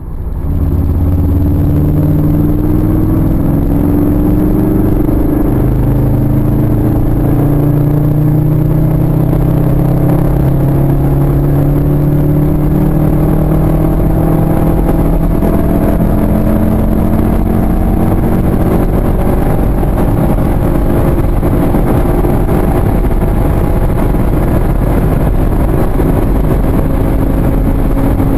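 Volkswagen Golf R's turbocharged 2.0-litre four-cylinder engine pulling hard in a high gear, its note rising slowly and steadily as the car gathers speed towards its top speed, over heavy wind and road noise.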